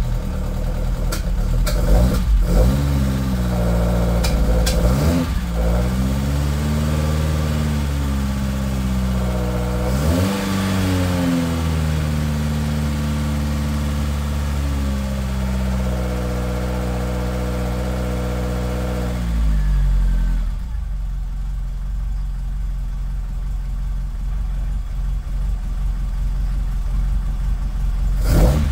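Ford Escort Mk1's engine running on its newly fitted Nodiz Gen X ECU. The revs rise and fall with several throttle blips in the first dozen seconds and then hold at a steady fast idle. The note drops away about twenty seconds in, leaving a low rumble.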